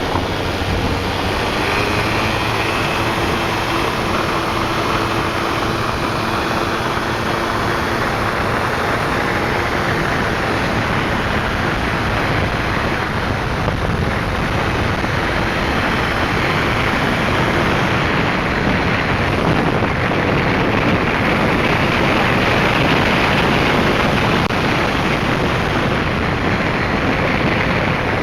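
Yamaha Grand Axis scooter's two-stroke engine running steadily under a loud, even rushing noise, with the level rising slightly towards the end.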